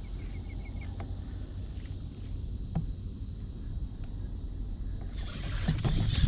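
Steady low rumble of wind on the microphone, with a faint insect trill fading out at the start. About five seconds in, a sudden, louder hissing rush of noise sets in and carries on.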